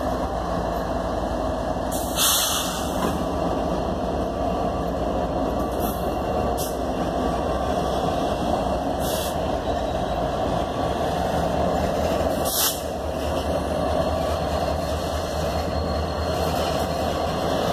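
Norfolk Southern freight train's diesel locomotives passing close by, engines running with a steady rumble and wheels rolling on the rails. A few short, sharp high-pitched sounds come through about 2, 6, 9 and 12 seconds in.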